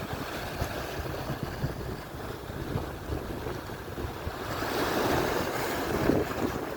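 Atlantic surf washing onto the shore, a steady wash that swells about two-thirds of the way through as a wave breaks and spreads, with wind buffeting the microphone in low thumps.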